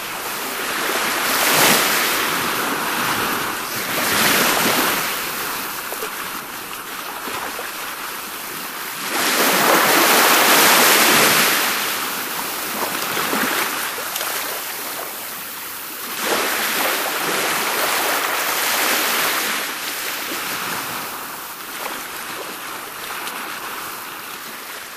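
Wind gusting against the microphone, a rushing noise that swells and eases every few seconds, strongest a little after halfway.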